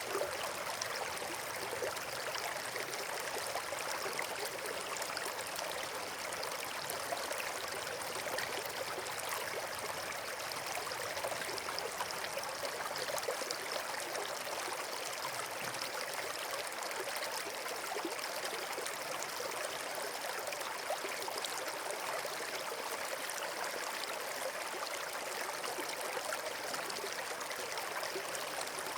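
Flowing water rushing steadily, like a stream or small waterfall: an even, unbroken wash of sound with no distinct pops or changes.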